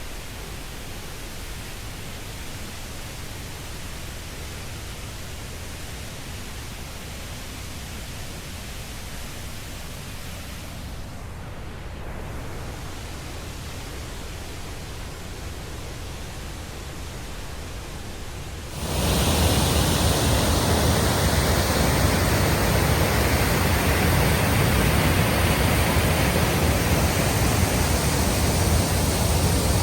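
Steady rushing noise of a large waterfall. It jumps suddenly to a much louder, brighter rush about two-thirds of the way in.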